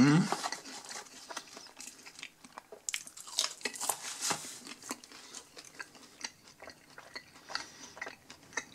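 A person chewing a mouthful of french fries close to the microphone: irregular soft crunching and wet mouth clicks, busiest around the middle. It opens with a short low voiced sound.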